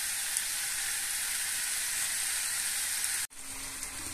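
Marinated chicken sizzling as it fries in onion-tomato masala in a non-stick kadai, a steady hiss. It cuts out abruptly about three seconds in and comes back a little softer.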